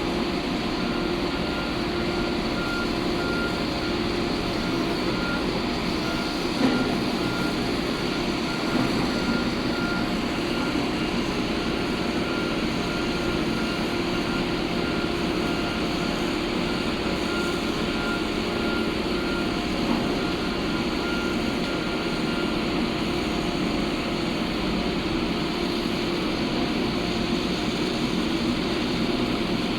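Heavy diesel construction machinery running steadily, with a backup alarm beeping in an even repeating pattern that stops about three-quarters of the way through.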